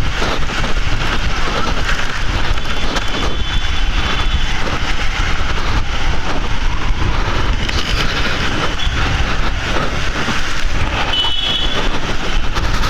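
Motorcycle riding in town traffic: steady engine rumble and wind noise on the rider's microphone, with a couple of brief high tones, about three seconds in and again near the end.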